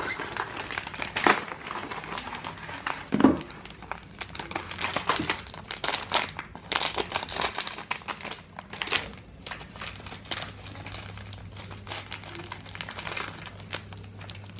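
Plastic snack wrappers crinkling and rustling as small packets are handled and opened, with irregular crackles that are louder in the first half.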